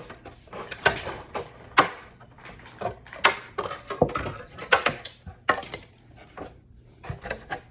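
Thin plastic kit parts being handled and trimmed, making a run of irregular sharp snips, clicks and crackles.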